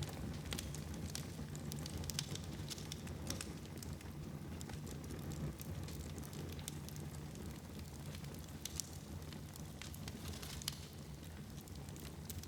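Fire burning in a fireplace, crackling with irregular sharp pops over a steady low background.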